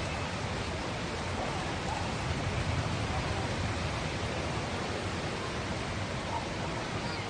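Heavy downpour: a dense, steady rushing of rain with a strong low rumble underneath.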